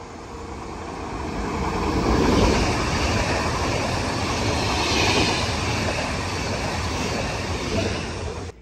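Electric multiple-unit passenger train running through a station without stopping: a rushing noise of wheels on rail that builds as it approaches, stays loud as the carriages pass, and cuts off abruptly near the end.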